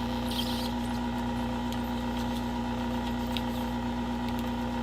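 Hot-air rework gun running, a steady constant hum, with a few faint light clicks.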